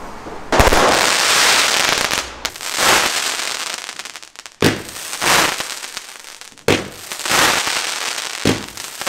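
Consumer fireworks going off outdoors: a sharp bang about half a second in, then a string of further bangs and bursts, each trailing off into a fizzing hiss.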